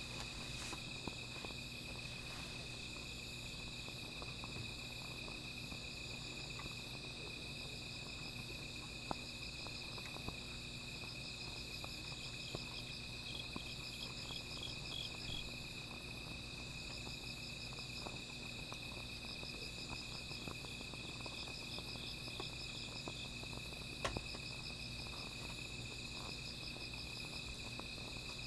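A chorus of night insects, crickets, singing: a continuous high ringing with overlapping pulsed trills that come and go. A few faint sharp pops from a small fire sound now and then, the clearest about nine seconds in and near twenty-four seconds.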